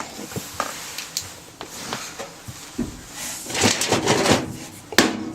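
Irregular knocking, clattering and scraping as the opened washing machine and the loose chunks of concrete inside it are handled, with a sharp knock about five seconds in.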